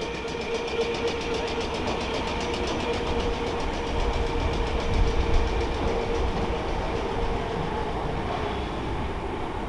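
Electric multiple-unit passenger train running through the station, a steady rail rumble with a held steady tone from the train, a little louder around the middle.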